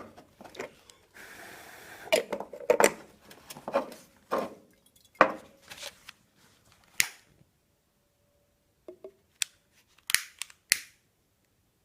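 Sharp clicks and taps, a second or two apart, with a brief hiss a little over a second in, during attempts to light an alcohol-fuelled glass jar pulse engine; the engine does not fire.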